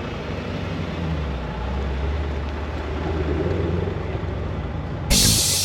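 A motor vehicle's engine running with a steady low drone. Near the end a sudden loud burst of noise cuts in.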